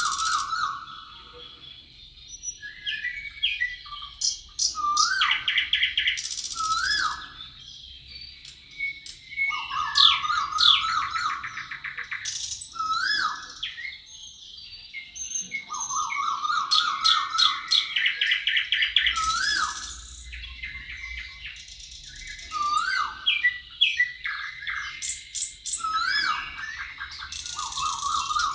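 Several songbirds singing over one another: a fast trill comes back about four times, among rising whistled notes and high buzzy chirps.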